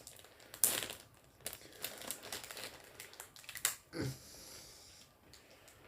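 Crinkling of a plastic candy wrapper being handled: a run of short crackles, the loudest about half a second in. A brief murmur from a voice comes around two-thirds of the way through.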